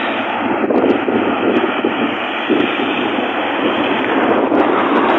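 A car driving along a wet road, heard from inside: steady road and engine noise, with a few faint clicks.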